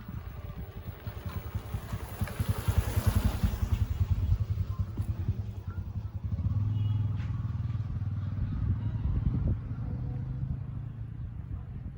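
A motor vehicle's engine running, with rapid low pulsing that settles into a steadier hum about six seconds in.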